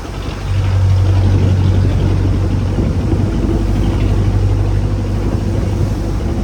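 A fishing boat's engine running steadily, growing louder about half a second in, over a rushing background of wind and water.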